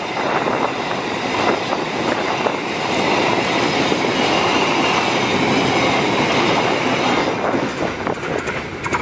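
Container freight train's loaded flatcar wagons rolling past close by, wheels clattering over the rails. The sound thins out near the end as the last wagon goes by.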